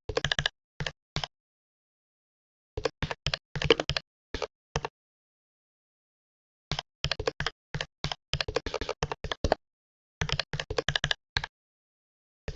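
Computer keyboard typing: quick runs of keystrokes in four bursts, with pauses of a second or two of dead silence between them.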